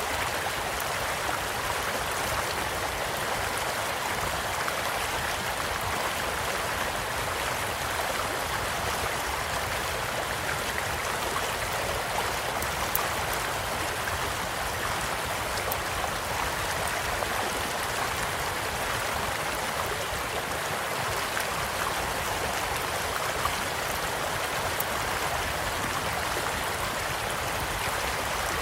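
A small stream running steadily with a continuous rush of water, and a campfire crackling beside it with a few scattered sharp pops.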